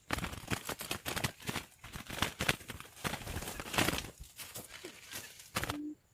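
Dense, irregular crackling and rustling, like dry leaves, twigs or brush being handled or trodden on, with a short low coo-like hoot near the end.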